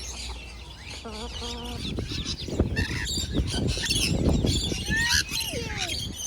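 Mixed aviary birds chirping and calling, several at once, with a falling call about five seconds in. A low rustling builds from about two seconds in.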